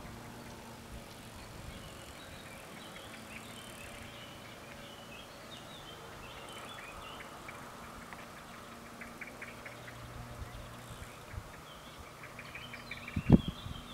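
Birds chirping over a faint steady hum, with one sharp knock near the end.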